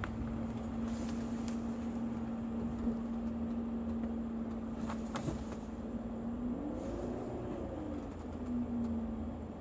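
BMW E46 320i's M52TU B20 2.0-litre straight-six idling steadily, stock exhaust, with one gentle rise and fall in revs about seven seconds in before settling back to idle.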